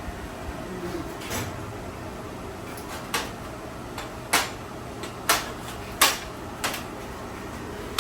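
About half a dozen sharp knocks at uneven gaps, each short with a brief ring-out, the loudest between about four and six seconds in.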